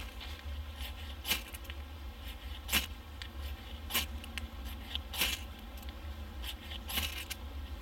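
Hand-made pump drill of fresh forest wood being worked for a friction fire: a short scraping whirr of the spindle against the hearth board with each stroke, about one every second and a half.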